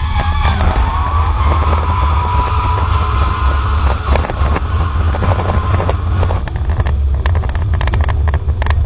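Audi A4 2.0 4x4 race car's engine heard from inside the stripped, roll-caged cabin, with a deep rumble throughout. Its pitch dips and climbs back just after the start, as in a gear change, then holds steady as the car pulls. A run of sharp knocks and rattles comes through the second half.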